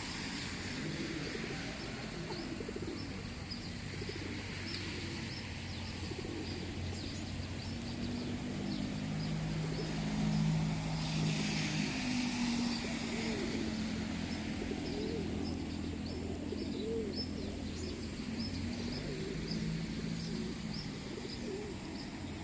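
A flock of pigeons cooing steadily while sparrows chirp in quick, short notes over them.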